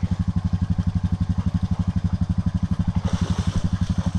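Honda Rancher 420 ATV's single-cylinder four-stroke engine idling steadily, with an even, quick low putter.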